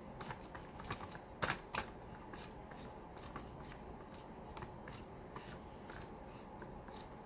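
Irregular small clicks and rustles of hands picking at a Dyson V7 motorhead's brush roll to free something jammed in it, with two louder clicks about a second and a half in.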